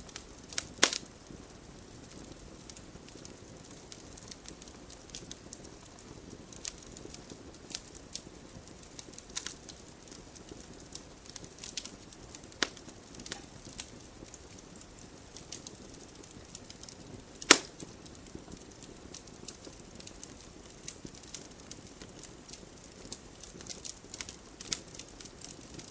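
Wood fire crackling in a fireplace: irregular sharp pops and snaps over a soft steady hiss, with a loud pop about a second in and the loudest one about two-thirds of the way through.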